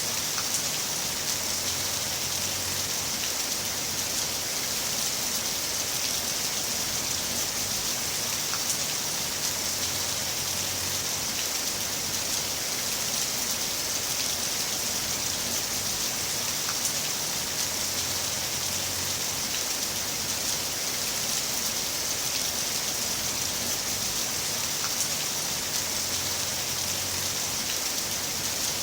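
Heavy rain falling steadily: a dense, even hiss with a few sharper drop ticks here and there.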